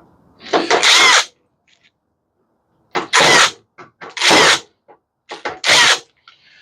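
Power drill running in four short bursts, spinning out screws while a microwave's casing is taken apart for scrap.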